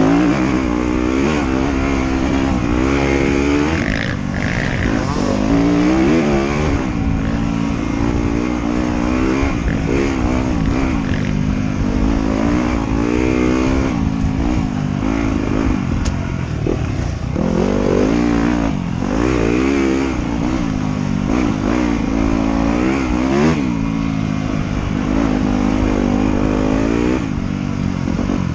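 Trail motorcycle engine running hard on a dirt trail, its revs rising and falling every second or two as the rider gets on and off the throttle, with some clatter throughout.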